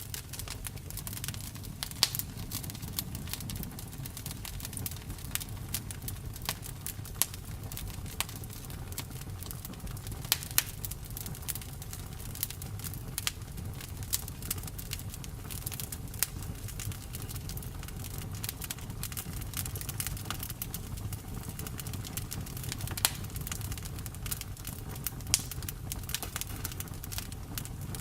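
Campfire burning: irregular crackles and sharp pops over a steady low rumble of the flames.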